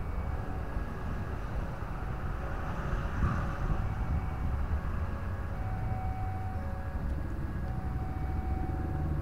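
Steady low rumble of an electric commuter train on the line, with faint whining tones that come and go.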